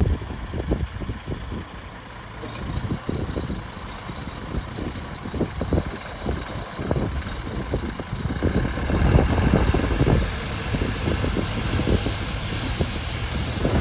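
Trident 55 hp tractor's engine running while towing, with an uneven low rumble; a hiss rises and grows louder about two thirds of the way through.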